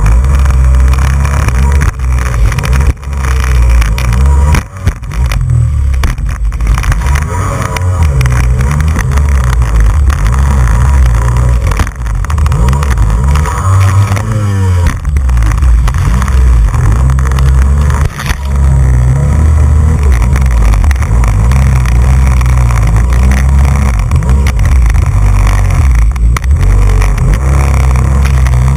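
Jet ski running at speed on the water: a loud, steady low rumble, with several brief dips in level and a short swell in pitch about halfway through.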